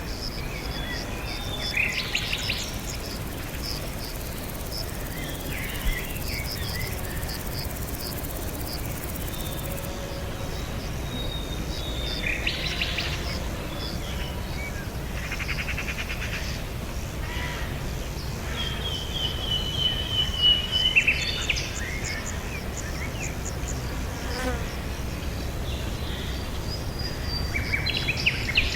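Birds chirping and calling in separate short bouts, with a drawn-out trilling call around two-thirds of the way through, over a quick, even run of high chirping notes and a steady low rumble.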